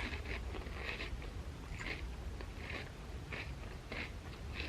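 A person chewing a mouthful of crunchy chips, with soft, steady crunches about twice a second.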